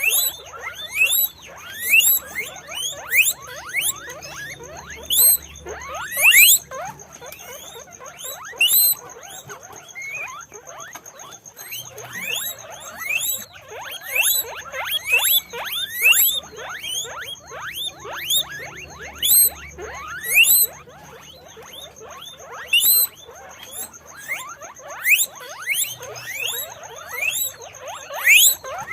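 Guinea pigs squeaking: a continuous run of short, rising whistled wheeks, several a second and overlapping, with louder calls every second or so.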